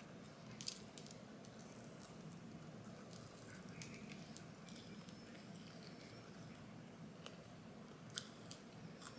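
Faint close-up chewing of a fried chicken nugget: soft wet mouth sounds with small crunches, and two sharper clicks, one near the start and one near the end.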